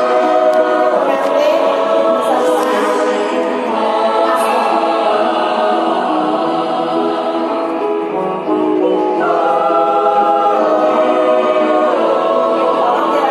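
Church choir singing held chords in several voice parts. The sound thins briefly about eight seconds in, then the voices come back in together.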